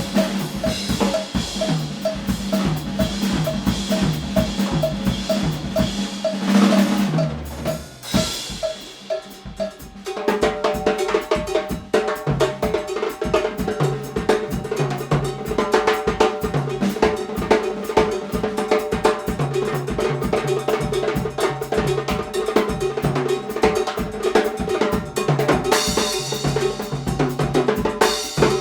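Drum kit played in a groove, with a cowbell pattern, rimshots, snare and bass drum over a pitched accompaniment. The playing thins out about eight seconds in, then the full groove comes back with sustained notes underneath.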